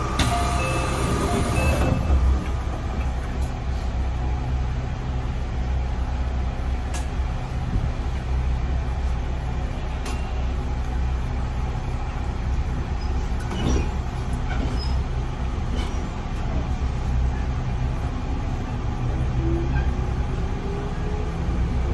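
Running sound inside a JR 311 series electric train: a steady low rumble of wheels on rail with a few sharp clicks. A short loud hiss of air comes in the first two seconds, and near the end a motor tone rises in pitch as the train picks up speed.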